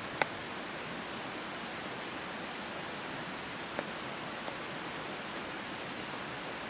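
Steady hiss of rain falling, with a few sharp ticks of single drops or small knocks, the clearest just after the start.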